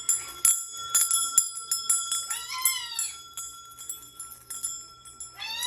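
Small metal bells on a bird toy jingling and clinking again and again. A bird gives a short rising-then-falling call about halfway through and another near the end.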